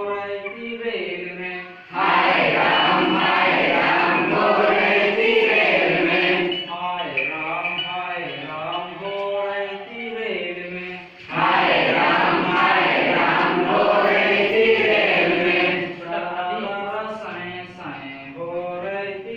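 A group of voices chanting and singing a rhythmic children's song, with two louder, fuller stretches where the voices sing together.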